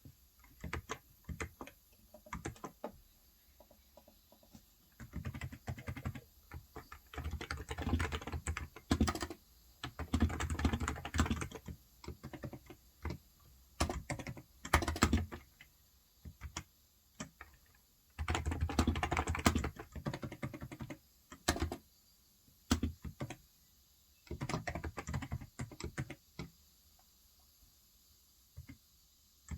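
Typing on a COX Endeavor tenkeyless electro-capacitive keyboard with 35 g switches: bursts of rapid keystrokes of a second or two, broken by scattered single taps and short pauses.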